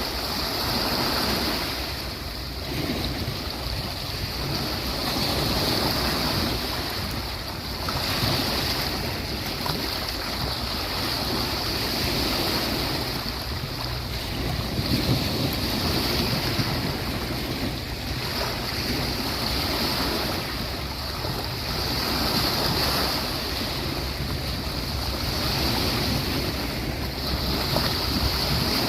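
Sea waves breaking and washing onto the beach, a continuous rush that swells and falls back every two to three seconds.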